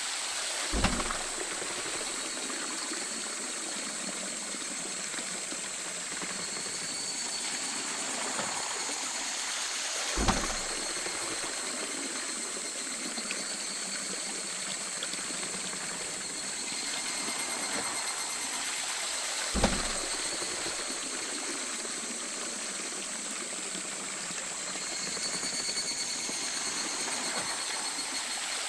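Water flowing and splashing steadily at a traditional waterwheel, with a deep thud three times, about every nine and a half seconds. Faint high steady tones come and go over the water.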